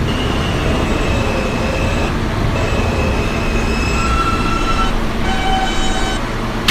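R160A subway car standing in a station: a steady low rumble with several thin electrical whines, whose pitch shifts in steps over the last few seconds.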